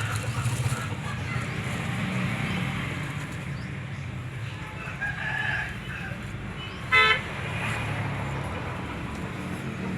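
Steady low rumble of road traffic, with faint high-pitched sounds about five seconds in and one short, loud, shrill call about seven seconds in.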